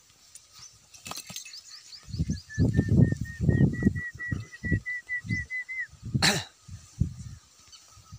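A bird calling a quick string of short, slightly rising notes, about three a second, for some three seconds, over irregular low rumbles. About six seconds in there is a single short burst of hissing noise.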